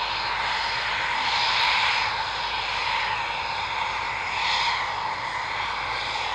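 Fixed-wing aircraft engine noise: a steady drone with a thin whine through it, swelling twice.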